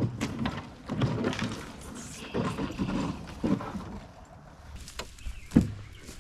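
Irregular knocks, scrapes and rustling from things being handled, with one heavy thump about five and a half seconds in.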